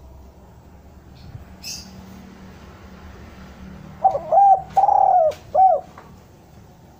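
Spotted dove cooing: one phrase of four notes about four seconds in, the third note the longest.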